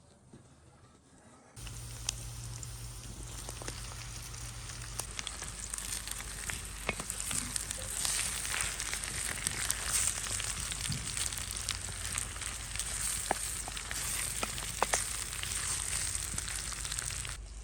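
Food sizzling as it fries in oil in a pan: a steady hiss with scattered small pops. It starts suddenly after a quiet moment about a second and a half in, and drops away just before the end.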